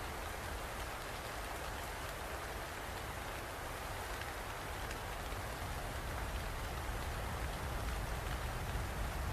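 Steady rain falling and pattering on a surface, with a low rumble underneath.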